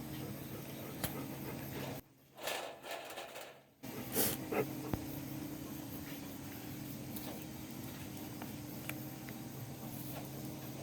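Wood and charcoal fire burning with a steady hiss and scattered faint crackles. The sound drops away briefly about two seconds in, and a couple of louder hissing bursts follow soon after.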